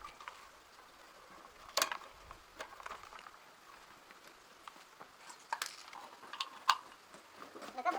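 Scattered light clicks and knocks, a few sharp ones standing out, like small hard objects being handled and set down.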